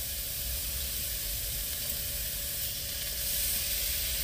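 Meat sizzling steadily in a hot frying pan.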